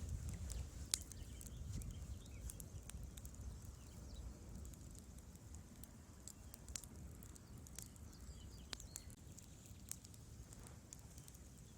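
Wood fire burning in a fireplace: irregular sharp crackles and pops over a low rumble. The loudest pop comes about a second in.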